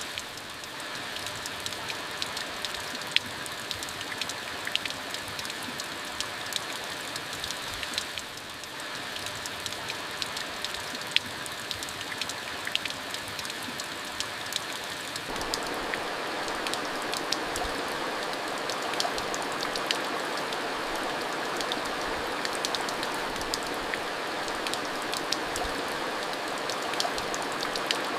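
Steady monsoon rain falling, an even hiss with many sharp individual drops ticking on hard surfaces. About halfway through the rain becomes louder and fuller, and stays that way.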